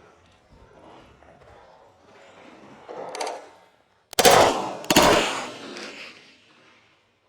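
Two loud handgun shots about three-quarters of a second apart, each with a short ringing tail, preceded by a softer noise.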